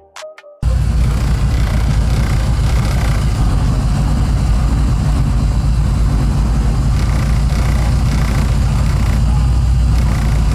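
Loud car engine idling steadily with a deep exhaust rumble. It cuts in abruptly about half a second in, after a short stretch of music.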